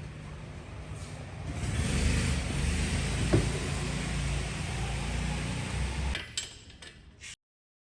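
Yamaha KT100 100cc two-stroke kart engine running, getting louder about a second and a half in, with one sharp click a little later. The sound drops away about six seconds in and cuts off suddenly near the end.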